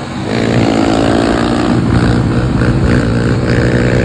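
Pit bike engine running under throttle, its pitch lifting a little just after the start and then rising and falling slightly as the bike is ridden.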